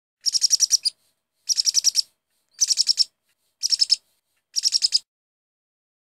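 Bird chirping in five short, rapid high-pitched trills about a second apart.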